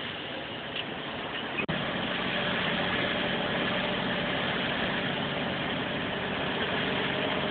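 Vehicle engine running steadily. About a second and a half in there is a brief sharp break, after which the engine sound is louder and stays steady.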